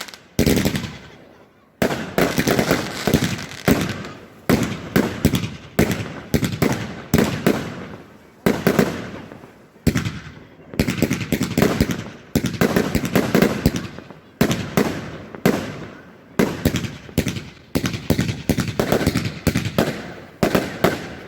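Celtic Fireworks consumer fireworks going off in quick succession: a steady string of sharp bangs and crackling bursts about every second or two, each trailing off before the next.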